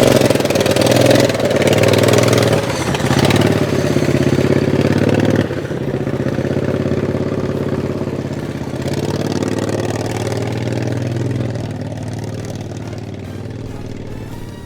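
Racing lawn mower's engine running and revving on the throttle, loudest in the first few seconds, then dropping back to a steadier note that grows fainter toward the end.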